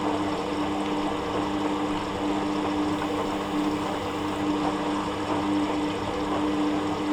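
Hoover Dynamic Next washing machine running on its rinse-and-spin cycle: a steady mechanical hum with a held tone over a noisy wash.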